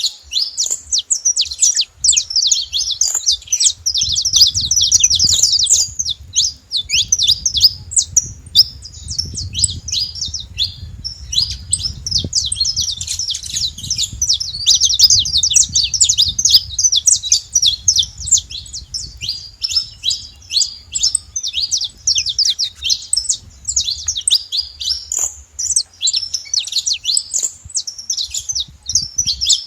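Saffron finch singing: a fast, near-continuous stream of high chirps and trills, broken only by a few brief pauses.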